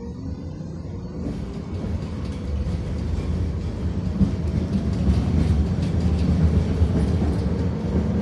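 Tatra T6B5 tram accelerating: the electric traction motor whine, which has just risen in pitch, holds a steady tone while the rumble of wheels on rails grows louder. Clicks and rattles of the running gear join about a second in.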